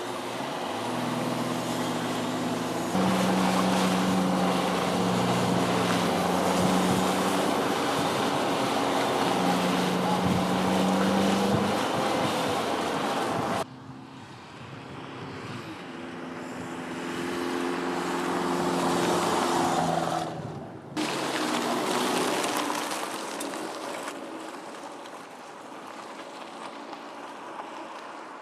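Jeep Cherokee engine running and tyre and road noise as it drives, with the engine note holding steady and shifting in pitch in steps. The sound cuts abruptly about 14 seconds in and again about 21 seconds in, changing to another shot.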